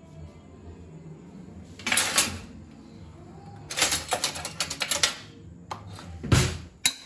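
Kitchen utensils and vessels being handled: a short scrape about two seconds in, a quick run of clicks around four to five seconds, and a heavier knock near the end, over a low steady hum.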